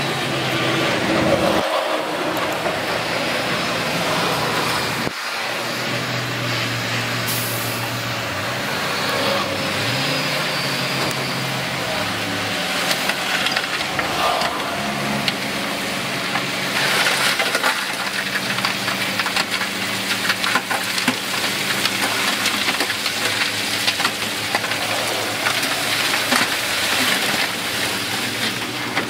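Heavy diesel earthmoving machinery running under load, a steady engine drone with changing pitch. In the second half it is joined by a run of clattering and knocking.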